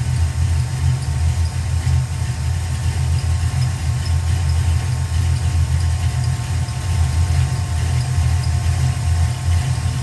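A 306-cubic-inch small-block Ford V8 idling steadily while its ignition timing is checked with a timing light.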